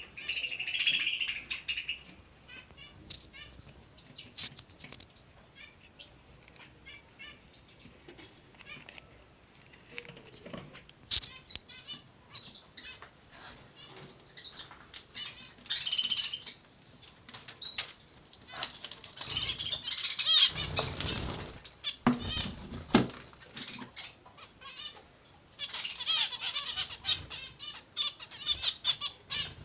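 Zebra finches chirping: runs of short, high, repeated calls broken by several bursts of dense, rapid twittering, the begging calls of chicks being fed. Wing flutters and a few sharp knocks come around the middle.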